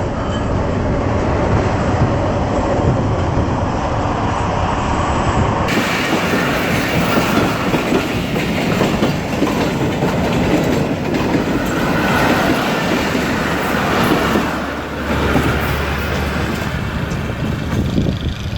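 A train running on the rails, its wheels clattering over the rail joints; the sound changes abruptly about six seconds in.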